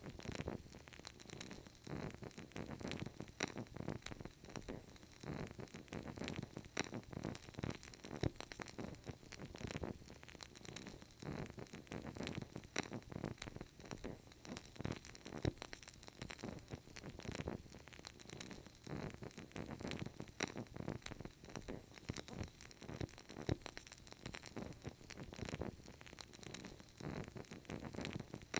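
Burning candle crackling, a dense, irregular run of small pops and clicks over a faint hiss.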